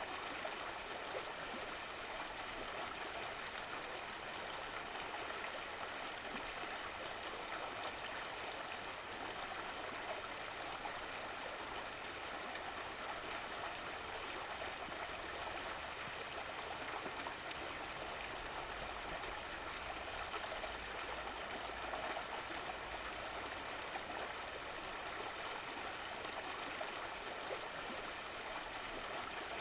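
Stream of running water flowing and trickling steadily, a continuous babbling rush with no breaks.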